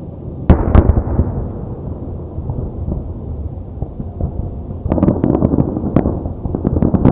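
Aerial fireworks: a loud shell burst about half a second in, its boom rumbling away, then from about five seconds a dense run of sharp crackling pops.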